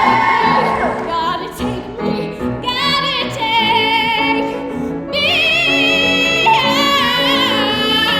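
Woman singing a musical theatre song in a trained, operatic style over instrumental accompaniment, holding high notes with vibrato in the second half.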